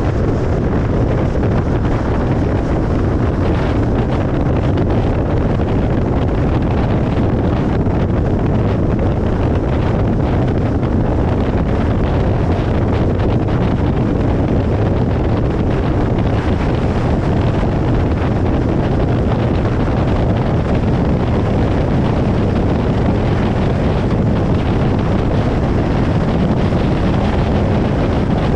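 Steady road noise of a car moving along a motorway: a constant rumble of tyres on the road surface and wind, with no changes.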